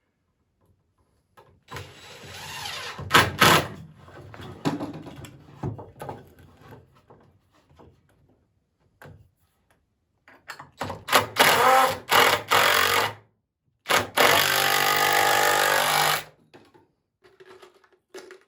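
Power drill driving screws into poplar boards in several short runs, starting and stopping abruptly; the longest steady run comes near the end.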